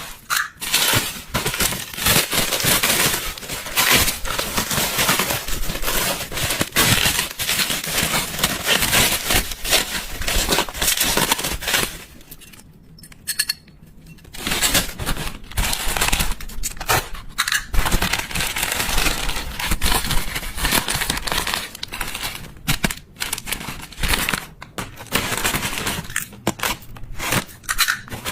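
Packaging being handled and unwrapped, with continuous crinkling, crackling and crushing, pausing briefly near the middle.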